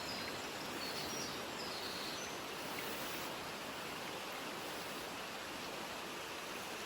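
Mountain stream flowing with a steady rushing sound, with a few faint high bird chirps in the first couple of seconds.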